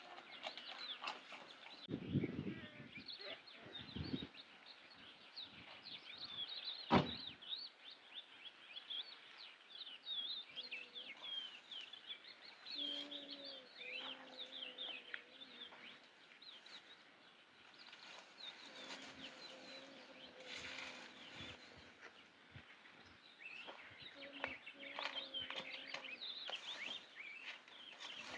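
Faint outdoor ambience of small birds chirping and twittering continuously, with a few low knocks a couple of seconds in and a sharp click around seven seconds. Several steady low tones of one to three seconds each come in the second half.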